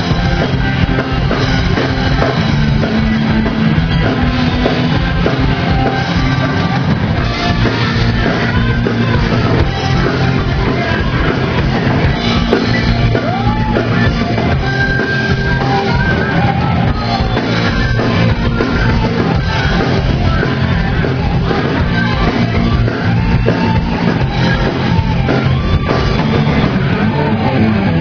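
Heavy rock music with a drum kit and singing.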